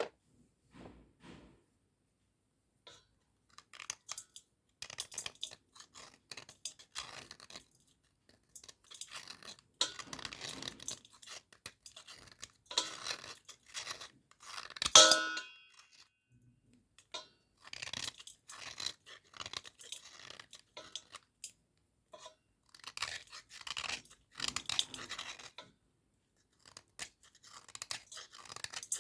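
Dry cubical Cat-brand slate pencils crunching and scraping in irregular bursts with short pauses between them. About fifteen seconds in comes the loudest moment, a sharp crack with a brief ringing.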